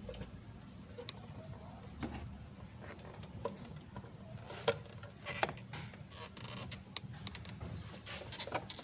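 Scattered small clicks and taps of parts being handled and fitted by hand, over a low steady hum, the clicks coming more often in the second half.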